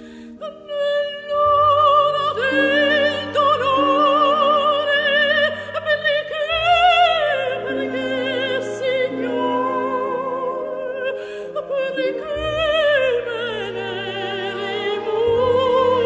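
Operatic aria: a classically trained voice sings long, held phrases with wide vibrato over sustained instrumental accompaniment.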